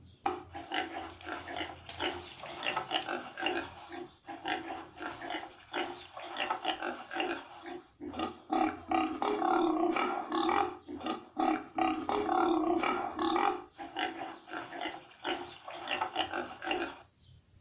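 Domestic pig grunting and oinking, a dense run of calls with brief pauses, busiest from about eight seconds in.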